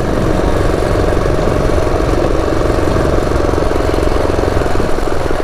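Built Predator 212 single-cylinder four-stroke engine driving a mini bike at a steady cruise, its rapid even firing pulses continuous and unchanging, with wind noise rumbling on the helmet-mounted microphone.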